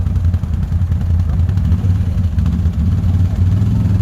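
ATV engine running steadily, with a low, even engine note.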